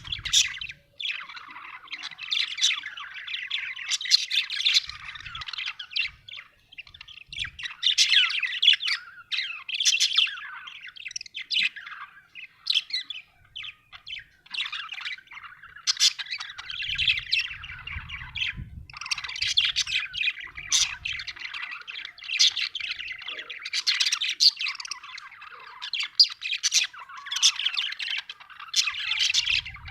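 Budgerigar chattering: a rapid run of chirps, warbles and short squawks, broken by brief pauses, with a few soft low thumps beneath.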